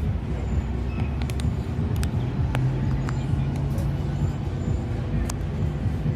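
An engine running steadily at a low pitch, with scattered light clicks and knocks over it.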